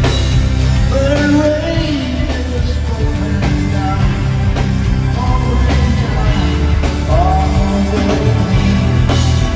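Live rock band playing a song, with a steady heavy bass and drum groove and a male lead vocal singing phrases over it.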